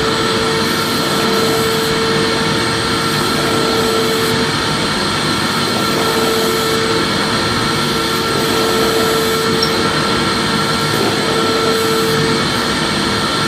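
Vacuum cleaner running steadily: an even rushing noise with a constant motor hum.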